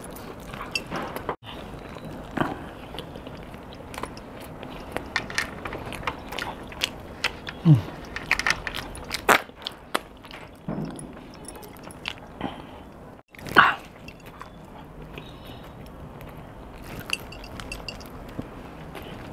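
A person biting and chewing pizza close to the microphone: irregular wet mouth clicks and crunches, with a brief low falling hum about eight seconds in.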